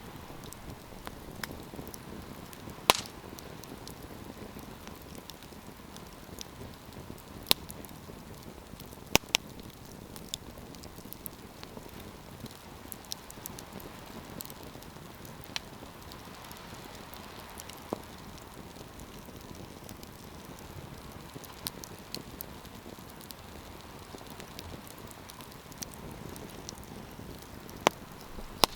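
Wood campfire burning with a steady low rush of flames and scattered crackles and sharp pops, a few of them loud.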